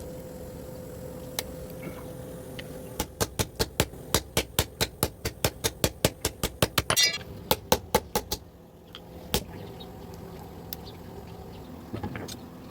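Blacksmith's hammer striking metal on an anvil in a fast even run of about five blows a second for roughly five seconds, then a single blow, over a steady low hum.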